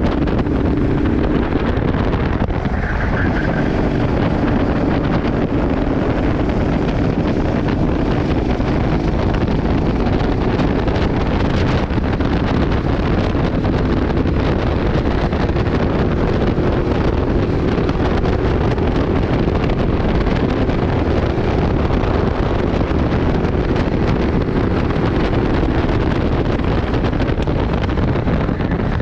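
Go-kart engine running steadily at racing speed, its note nearly constant, heavily buffeted by wind noise on the microphone.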